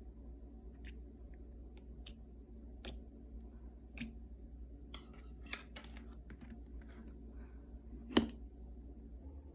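Slime being squeezed and stretched by hand, giving scattered small clicks and pops, a quick run of them about halfway through and one louder pop near the end, over a steady low hum.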